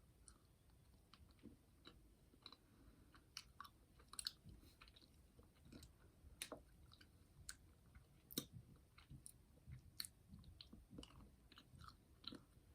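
Faint chewing of a jelly bean candy (a jelly bird egg): soft, irregular sticky mouth clicks.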